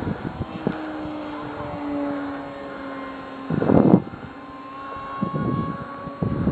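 Small engines of radio-controlled model airplanes droning in flight, their pitch drifting slowly as they move. A brief loud rush of noise comes about halfway through.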